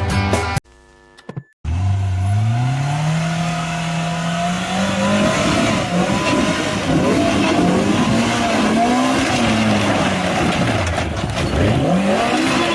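A vehicle engine revving: its pitch climbs steadily, then rises and falls again and again as the throttle is worked, with tyre or road noise underneath.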